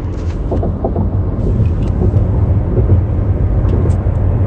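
Steady low rumble of a car, heard through a phone's microphone, with faint voices in the background about a second in.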